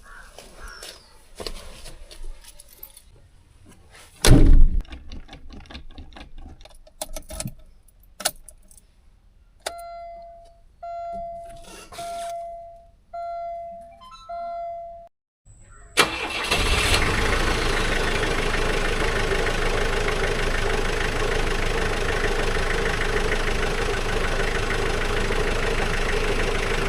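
Scattered clicks and a loud thump, then five even electronic beeps of about a second each; about two-thirds through, an old Mahindra Bolero's engine starts abruptly and settles into a steady idle.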